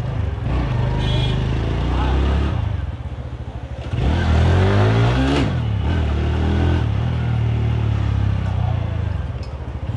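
A TVS Radeon's 110 cc single-cylinder four-stroke engine running as the motorcycle rides along in slow street traffic. It gets louder, with its pitch shifting, as the throttle opens about four seconds in, then settles back to a steady run.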